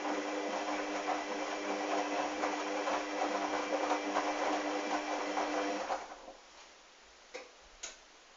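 Hoover washing machine running mid-wash: a motor hum with a layer of sloshing, sudsy water, which stops about six seconds in. Two short clicks follow near the end.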